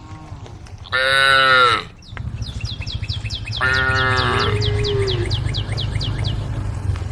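Cows mooing: one loud call about a second in, and a second call near the middle that trails off low. Over it runs a rapid string of high chirps, with a steady low rumble underneath.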